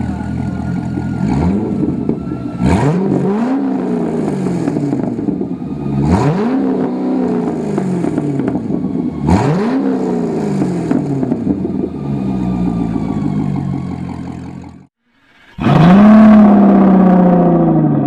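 Corvette C6 Grand Sport's 6.2-litre LS3 V8 through a custom muffler-bypass race exhaust, idling and blipped four times, the pitch snapping up and falling back to idle each time. Near the end the sound drops out for a moment, then comes back with one last rev, the loudest, settling down again.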